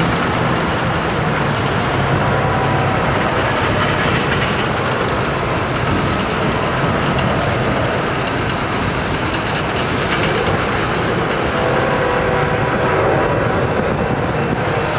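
Florida East Coast Railway diesel freight locomotives approaching through a tunnel, a steady, loud rumble with no pauses.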